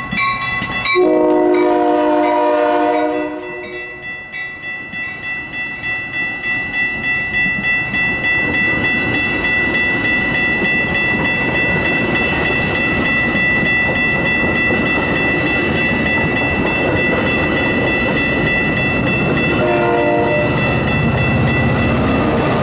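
A Metra commuter train sounds its horn in one blast of about two seconds, then comes through the station. The rhythmic clicking of its wheels over the rail joints builds up into the steady loud rumble of the passing train, and a short horn note sounds again near the end. A rapid ringing runs underneath at the start.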